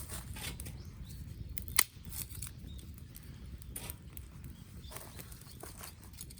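Wood campfire crackling with scattered small pops, and one loud sharp snap about two seconds in.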